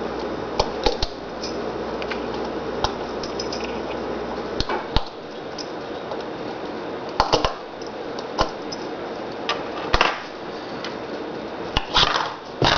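Scattered clicks and knocks of small objects being handled and put together, over a steady background hiss.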